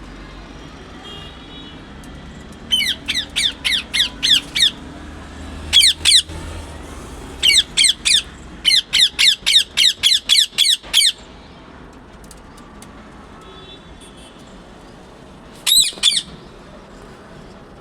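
A parrot calling in rapid series of short, shrill calls, each falling in pitch, about four a second. The calls come in several bursts with pauses between them, the last a brief pair near the end.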